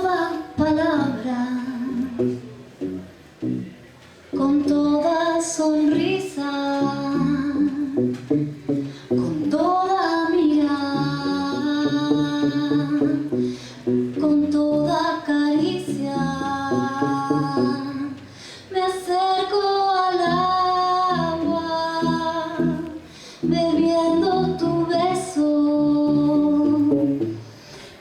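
A woman singing a slow song in Spanish, accompanied only by a bass playing low notes beneath her voice.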